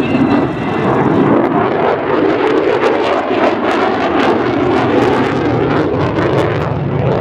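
F-35B Lightning II fighter jet's Pratt & Whitney F135 turbofan engine, loud and steady as the jet flies a tight minimum-radius display turn. The noise carries a ragged crackle through the middle seconds.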